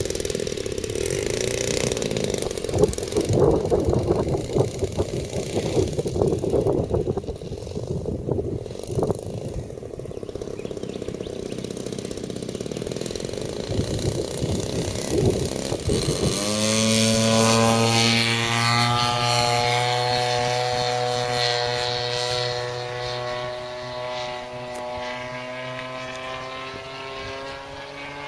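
RC model airplane running under power. The sound is rough and fluttering for the first half, then becomes a clear, steady propeller drone a little past halfway that slowly sinks in pitch.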